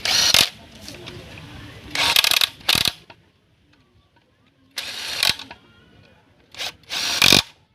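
Metal clinks and knocks of tools and differential parts being handled and struck, in about six short bursts with pauses between them.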